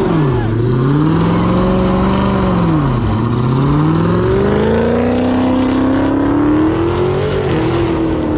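V8 muscle car engine revving hard. The revs climb and drop twice in the first three seconds, then climb steadily for about four seconds before easing off near the end.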